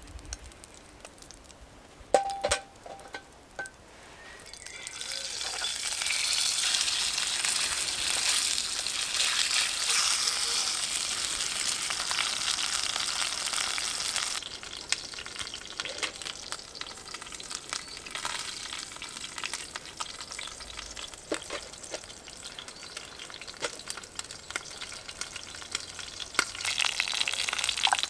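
Food sizzling in a pan over a campfire, after a few knocks about two seconds in. The sizzle swells about five seconds in, eases to a crackling sizzle past the middle and rises again near the end.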